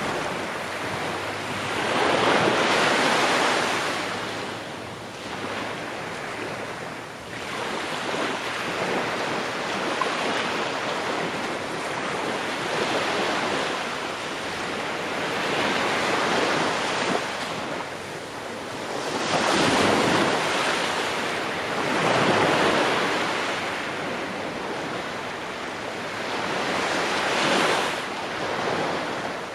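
Ocean waves breaking and washing on a shore, a continuous surf that swells and recedes every few seconds, with wind noise over it.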